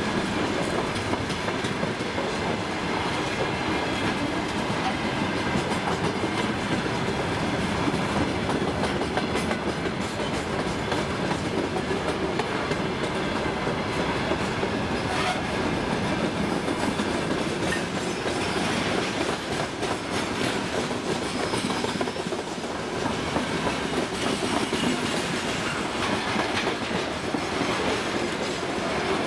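Freight train wagons, open gondolas and then covered hoppers, rolling past at steady speed: a continuous rumble of steel wheels on rail with clicks as the wheels cross the rail joints.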